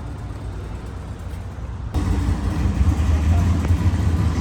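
Car engine idling with a low, steady rumble, which becomes abruptly louder and closer about two seconds in.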